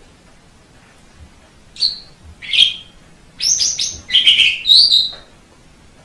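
White Asian pied starling (jalak suren putih) singing: a string of loud, harsh notes starting about two seconds in, several of them in quick succession, lasting about three seconds.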